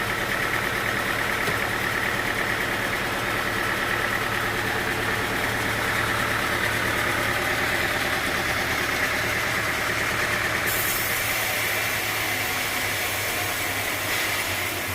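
Machinery running steadily with an engine-like hum. The sound changes character abruptly about two-thirds of the way through.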